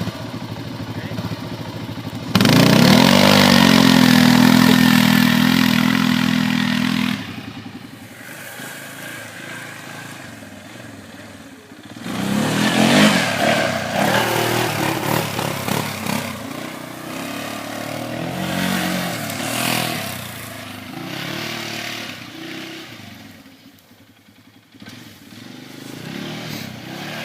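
Small off-road vehicle engine held at high revs for several seconds, then easing off. About halfway through it revs up again, rising and falling in pitch as it is ridden, and drops away briefly near the end before building again.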